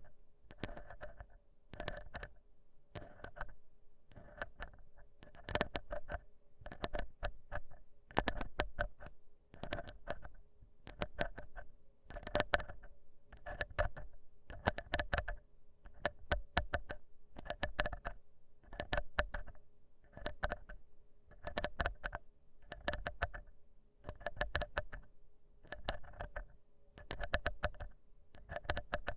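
Ear pick scraping in an ear in short scratchy strokes, each stroke a little cluster of crisp clicks and scratches, repeating about once a second.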